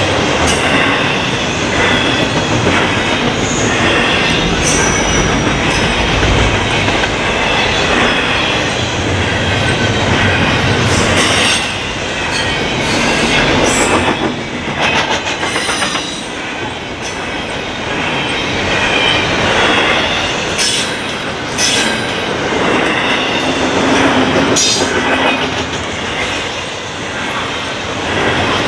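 Double-stack intermodal freight cars rolling past on jointed or welded rail: a steady rumble and hiss of wheels on track, with scattered clicks and faint high-pitched wheel-squeal tones at times.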